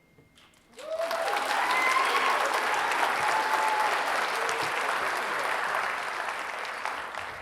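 Audience applauding at the end of a band piece. The clapping breaks out about a second in, with a few whoops and cheers over it in the first few seconds, and thins out near the end.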